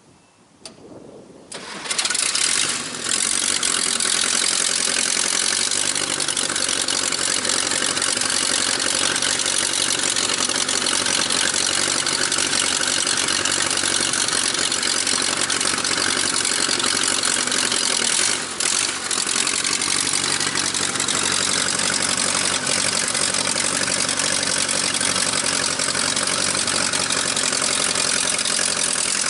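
1956 Case 310 tractor's engine starting: it builds up over the first couple of seconds, then runs loudly and steadily, with a brief dip about two-thirds of the way through.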